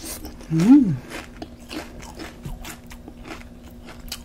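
Crunching and chewing of nacho tortilla chips: many short, sharp crunches all through. About half a second in comes a brief hum from the eater that rises and then falls in pitch.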